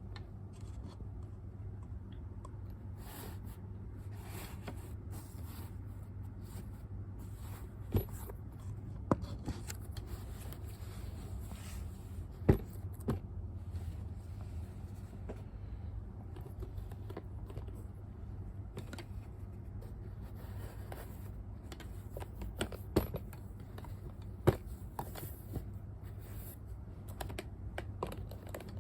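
Hands handling a bag and its packaging: scattered light taps and clicks with faint scraping, a few seconds apart, over a steady low hum.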